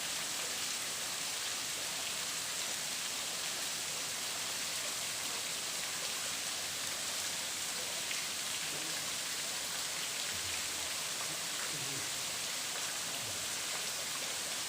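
Steady hiss of falling and splashing water, like heavy rain.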